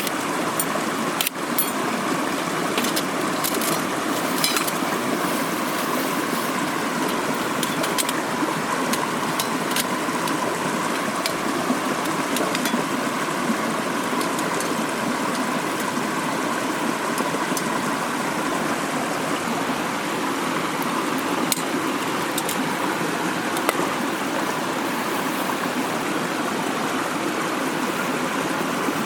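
Mountain stream rushing steadily, with a few sharp clicks in the first few seconds.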